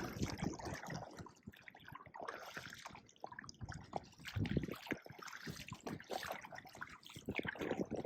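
Water trickling and dripping with small irregular splashes from kayak paddling.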